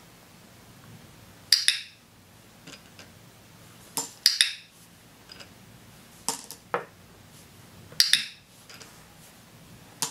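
Small hard objects clicking and clinking on a tabletop: about seven sharp clicks, some in close pairs, spaced unevenly a second or two apart.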